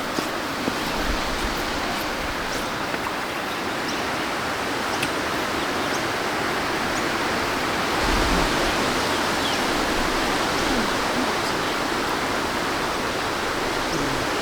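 Steady rushing of a breeze through trees, swelling in a gust about eight seconds in, with a few faint high bird chirps.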